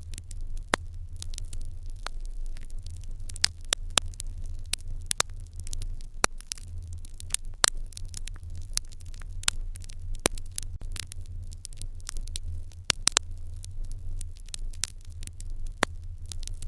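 Wood fire in an irori hearth crackling, with many irregular sharp pops over a steady low rumble.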